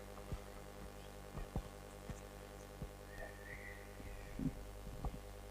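Faint steady electrical hum with a few scattered soft clicks and knocks.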